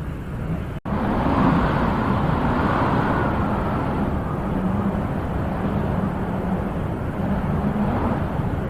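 Steady wind noise that swells into a gust a second or two in. The sound cuts out for an instant just under a second in.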